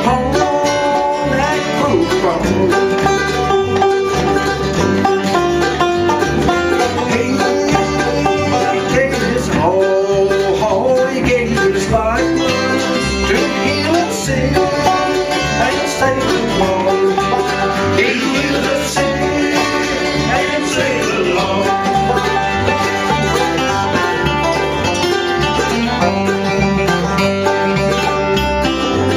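Live bluegrass band playing, with banjo and guitar picking over a steady bass beat.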